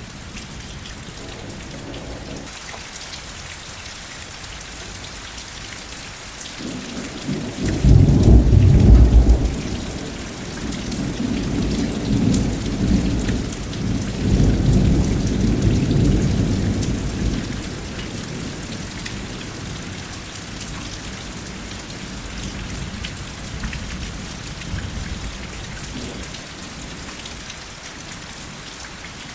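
Steady rain falling, with a roll of thunder that swells about a quarter of the way in, peaks in a loud deep rumble, rolls on for several seconds and fades. A fainter low rumble comes later.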